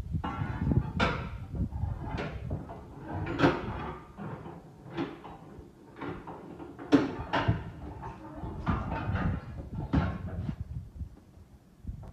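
A series of irregular knocks and clunks, a dozen or so, from hard objects being struck or handled; the loudest come about three and a half and seven seconds in.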